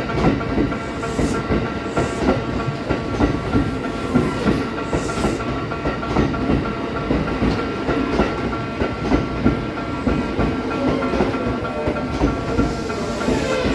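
Kintetsu 3200 series electric train rolling slowly through the station points as it pulls in: wheels clack irregularly over rail joints and turnouts under a steady high squeal. A hiss of air rises near the end.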